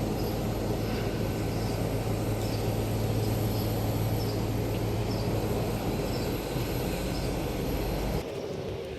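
Jet airliner engines running as a steady rumble with a low hum. It drops off abruptly about eight seconds in.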